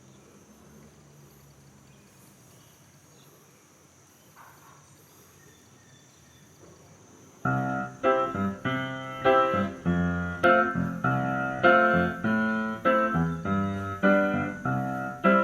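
Faint background noise, then about seven seconds in a piano starts playing a melody of separate struck notes: the instrumental intro of a song.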